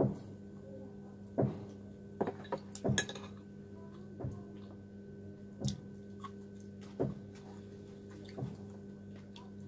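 A person eating instant noodles with chopsticks: short slurping and chewing mouth sounds and clicks of chopsticks against a bowl, coming every second or so, with a small cluster of them about two to three seconds in. A steady low hum runs underneath.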